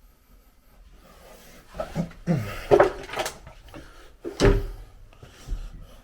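A wooden toilet door creaking and knocking as it is pushed open. There are several creaks and knocks, then a heavier thump about four and a half seconds in.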